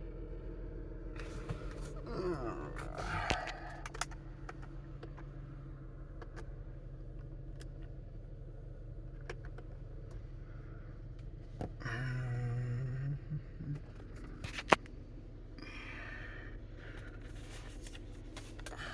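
2009 Ford Flex's 3.5-litre V6 idling steadily, with scattered clicks and knocks of handling over it and a brief louder tone about twelve seconds in.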